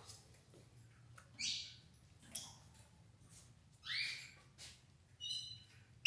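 Belgian canaries giving short, faint chirp calls, about three, a second or two apart, with a small click in between.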